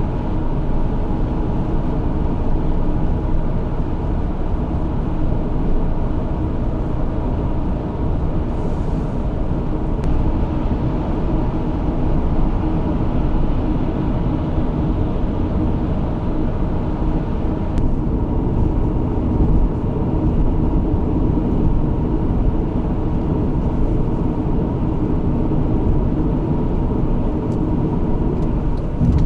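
Honda Odyssey on the move: a steady low rumble of road and engine noise that holds even throughout, with no gear changes or stops.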